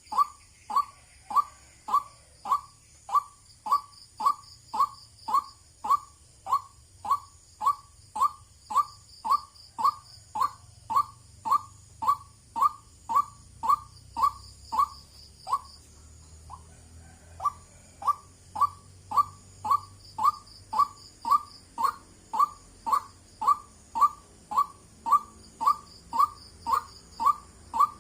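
White-breasted waterhen calling: a long run of loud, short 'wak' notes, a little under two a second, with a brief break about halfway through.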